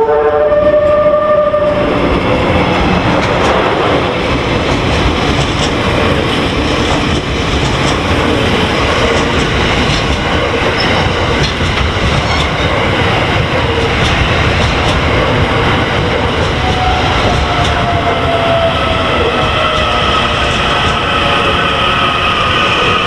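Train Suite Shiki-shima rolling into the station and slowing: a horn that stops about two seconds in, then a steady rumble of wheels on rail, with a brake squeal setting in near the end as the train slows to stop.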